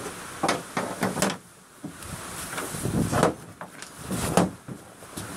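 A series of irregular knocks and clacks from hand work on a boat: about eight or nine separate hits spread across a few seconds, the loudest about three seconds in and again near four and a half seconds.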